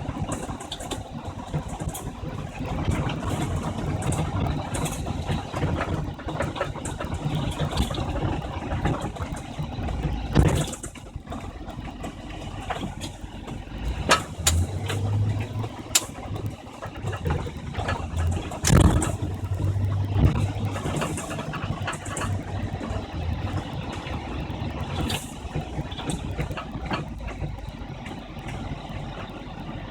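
The 1997 Isuzu NPR truck's rebuilt engine running steadily, with a few sharp knocks or clanks at scattered moments.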